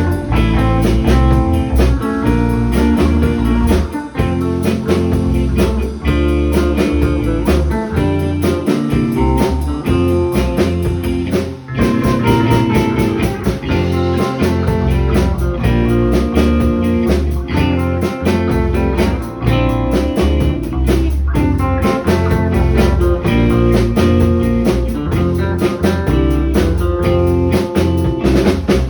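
Live band music: an electric guitar made by Hallmark plays over steady drums, with a dense run of notes and no break.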